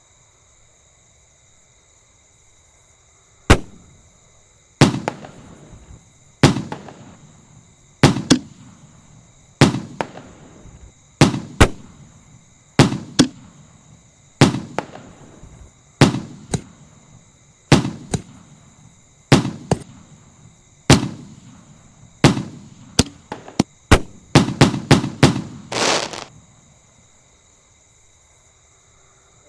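A 16-shot consumer firework cake firing. Sharp bangs start about three and a half seconds in and come roughly one every second and a half, each trailing off with echo. They speed up into a quick run near the end and then stop.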